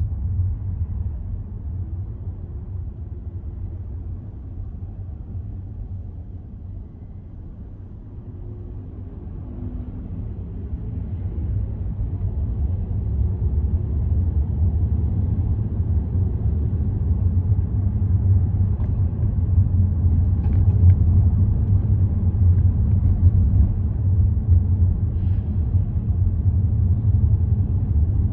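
Low rumble of a car being driven, the road and engine noise of the moving vehicle. It eases off for a few seconds about a quarter of the way in, then builds again and holds steady.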